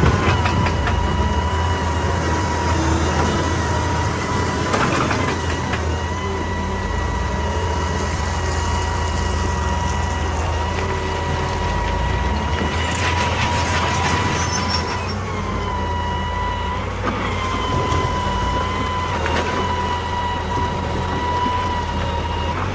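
Excavator running under load, its diesel engine giving a steady low rumble under a steady high whine, with rock scraping and crunching at intervals, strongest about five seconds in and again around thirteen to fourteen seconds.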